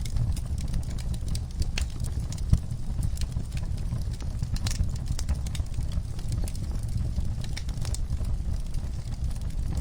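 Fire burning in a fireplace: a steady low rumble with frequent, irregular sharp crackles and pops, and one louder pop about two and a half seconds in.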